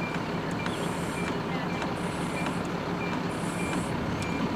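A large vehicle's reversing alarm beeping steadily, a short high beep about every two-thirds of a second, over the low rumble of an idling engine.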